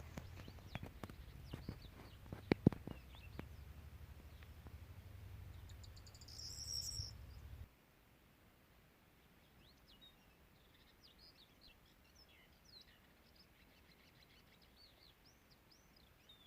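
Scattered clicks and knocks over a low rumble, which cuts off suddenly about eight seconds in; after that, faint bird chirps.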